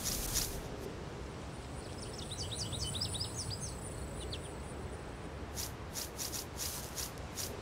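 Small birds chirping, a quick cluster of high chirps about two to four seconds in, over a steady high buzzing and a low ambient rumble. Near the end come several short airy swishes.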